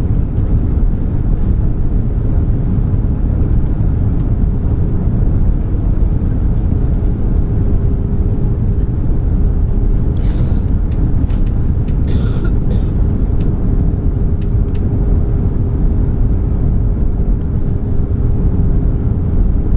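Airbus A340 cabin noise on approach: a steady low rumble of engines and airflow with a constant hum tone running through it. Two brief hissing sounds come about halfway through.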